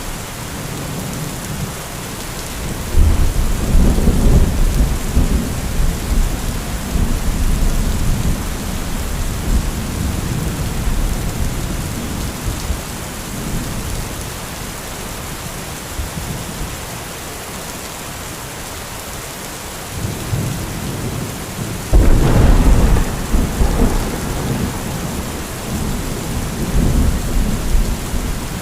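Heavy rain falling steadily while thunder rolls twice. The first peal starts suddenly a few seconds in and rumbles for several seconds. The second builds and then breaks into a loud crack-and-rumble about two-thirds of the way through.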